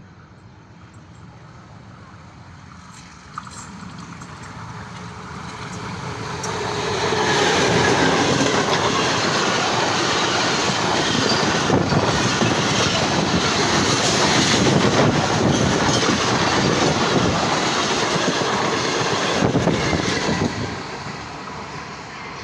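Pakistan Railways express passenger train approaching and passing at speed. A rumble builds over several seconds, then loud, dense wheel clatter and rushing noise go on for about thirteen seconds and fall away quickly near the end.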